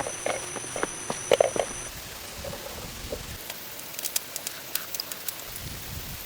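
Rain falling in forest: an even patter with scattered sharp drip ticks. For the first two seconds a steady high whine and a few knocks are heard; these stop abruptly, as at a cut.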